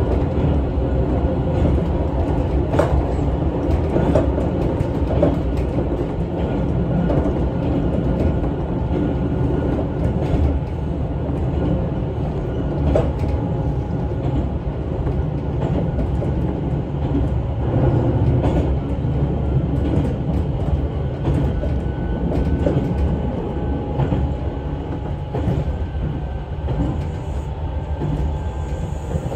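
Running noise inside a 6050-series electric train's motor car: a steady rumble of wheels on rail and traction motors, with short knocks now and then as the wheels pass over rail joints.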